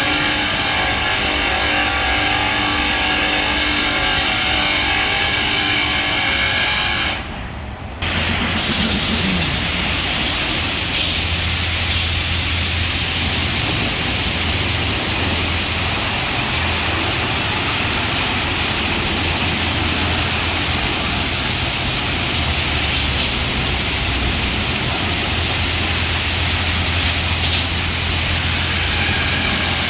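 Touchless automatic car wash machinery at work: a machine whine of several steady tones, then a brief drop about seven seconds in, after which a loud steady rushing hiss of the high-pressure equipment sits over a low hum.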